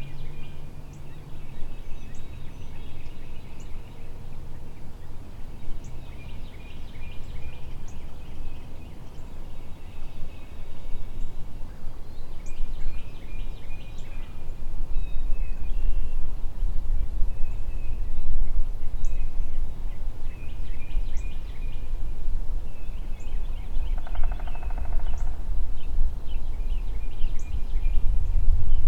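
Repeated series of turkey yelps, short high notes in runs every few seconds. Low wind rumble on the microphone builds from about halfway.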